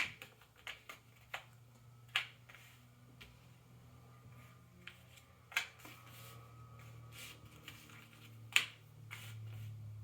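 Cardboard jigsaw puzzle pieces being handled and set down on a table: scattered sharp clicks and taps, the loudest about two seconds in, just past five and a half seconds, and about a second and a half before the end. A faint low hum runs underneath.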